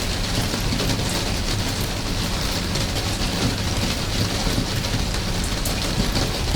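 Steady rain falling, with many individual drops pattering over an even hiss and a steady low rumble beneath.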